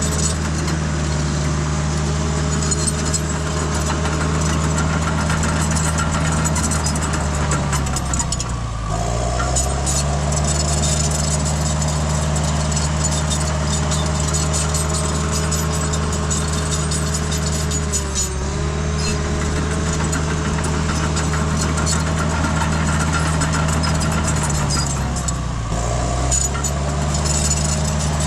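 Diesel engine of a tracked earthmoving machine running steadily at working revs, its pitch sagging briefly and recovering three times as it takes load.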